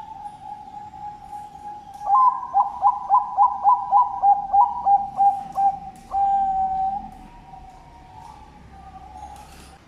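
Zebra dove (Bangkok perkutut) cooing. A long steady coo gives way to a run of about a dozen quick clipped coos, roughly three a second, ending in a held note.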